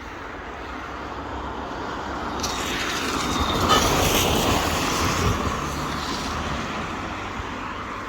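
A road vehicle passing close by, building to its loudest about four seconds in and then fading away.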